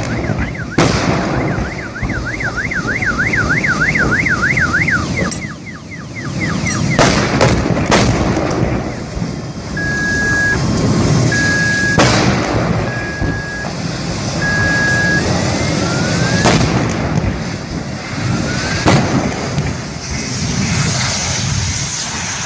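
A car alarm's rapid warbling tone, rising and falling several times a second, that stops about six seconds in, over a steady noisy background. Later come four short, evenly spaced beeps and several sharp cracks.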